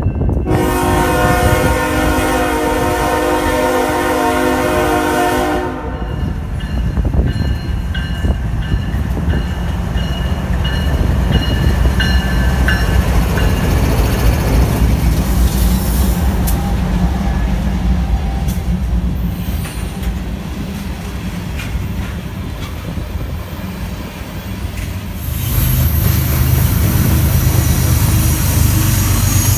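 Diesel freight locomotive horn sounding one long blast as a chord of several tones for about five and a half seconds, then the locomotives and a string of covered hopper cars rolling past with a steady rumble and wheel noise. Near the end a heavier low locomotive engine rumble swells up.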